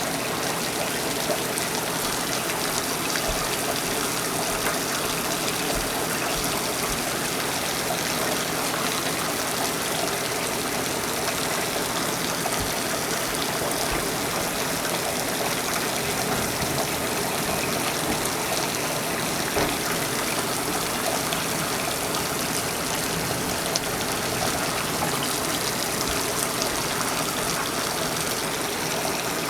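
Torrential rain pouring down in a steady, dense hiss, with water gushing and spilling from overwhelmed gutters.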